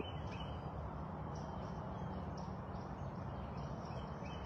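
Outdoor ambience: steady low background noise with faint, short bird chirps repeating throughout.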